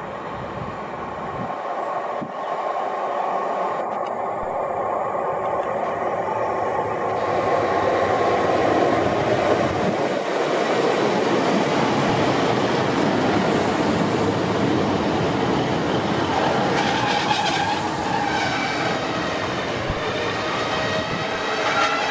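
A British Rail Class 150 Sprinter diesel multiple unit approaching and running past close by, its diesel engines and wheels on the rails growing louder over the first several seconds and then holding steady as the carriages go by. It slows into the station, with a brief hiss about three-quarters of the way in and steady tones rising near the end as it brakes.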